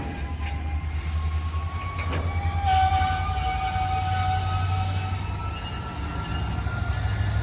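Train passing close by on the rails, with a steady low rumble. From about three seconds in, thin high squealing tones from the wheels slowly rise in pitch.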